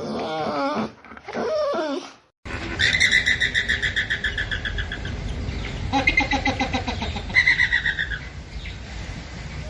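An animal's wavering, whining calls for about two seconds, then after a sudden cut a series of fast, rattling chirp trills repeated several times over a steady background hiss.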